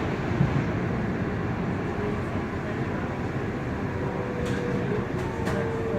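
Frankfurt U-Bahn light-rail train running between stations, a steady rumble of wheels on the track. A faint whine comes in about four seconds in, and there are a couple of sharp clicks near the end.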